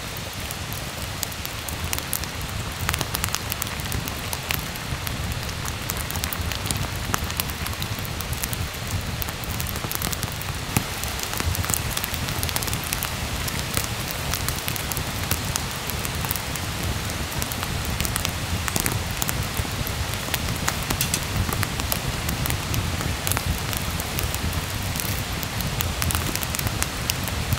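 Steady rain: a dense patter of drops with many sharp little ticks against an even hiss.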